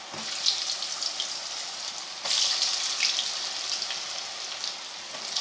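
Potato finger chips coated in a gram-flour and spice batter deep-frying in hot ghee: a steady crackling sizzle with many small pops. It jumps louder about two seconds in.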